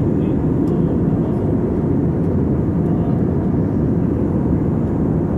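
Steady in-flight cabin noise of an Airbus A320 airliner: engine and airflow noise, low-pitched and unchanging.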